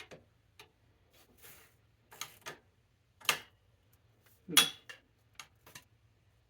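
Irregular small metallic clicks and clinks from hand tools working on a bicycle's brake parts, with a louder clank about four and a half seconds in.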